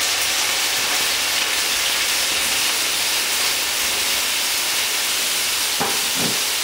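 Tofu frying in hot olive oil in a skillet: a steady sizzle.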